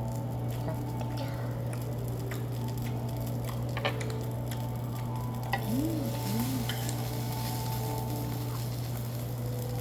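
Food sizzling steadily over a continuous low hum, with a few light clicks of utensils and two short squeaky sounds about six seconds in.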